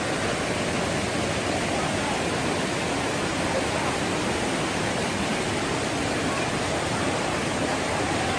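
Waterfall water rushing in a steady, even roar of noise.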